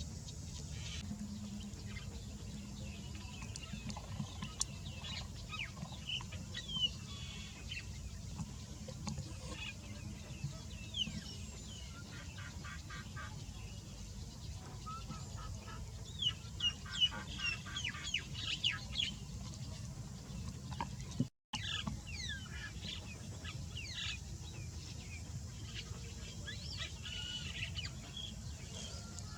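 Birds calling: many short chirps and sweeping calls, with two passages of rapid rattling notes, over a steady low background hum. The sound cuts out for an instant about two-thirds of the way through.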